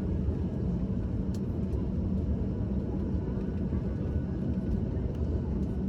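Steady low rumble inside a jet airliner's cabin as the plane taxis after landing, with its engines at idle.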